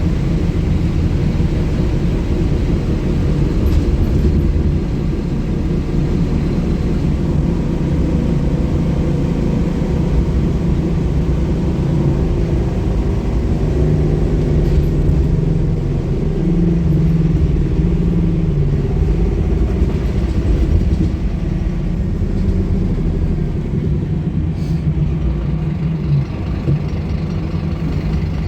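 Scania K230UB city bus with its five-cylinder diesel running under way: a steady low rumble whose engine note shifts up and down a few times as the bus drives.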